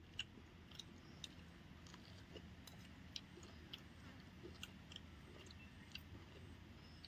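Faint chewing of fried chilli chicken, with irregular small mouth clicks and crunches over a low steady background hum.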